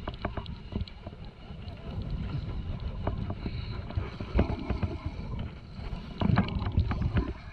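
Sounds aboard a small fishing boat at sea: a steady low rumble of wind on the microphone and the moving boat, with scattered knocks and clicks that are loudest a little past the middle and again near the end.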